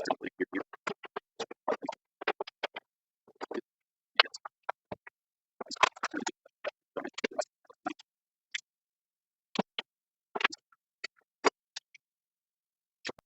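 Short, irregular clicks, knocks and scrapes of wooden parts and tools being handled on a workbench, densest about six seconds in and thinning out toward the end.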